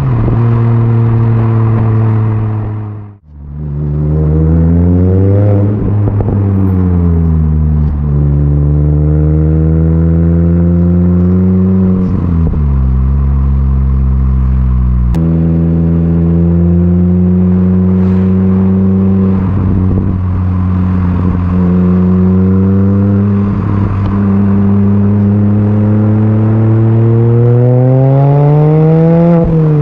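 Mini Cooper S R53's supercharged four-cylinder engine through a stainless-steel cat-back exhaust, pulling up through the revs under acceleration. The pitch drops sharply at each gear change, three or four times, and the sound cuts out briefly near the start.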